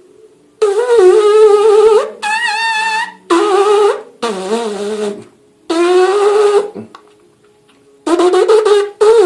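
Trumpet-style lip buzz, the embouchure buzz that makes a trumpet sound. It comes as about seven short buzzed notes of around a second each, with a wavering pitch; one note is higher, and the last one slides up and back down.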